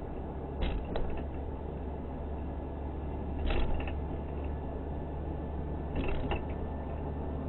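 Car running with a steady low rumble, with a few short knocks or clunks about a second in, around three and a half seconds in, and around six seconds in.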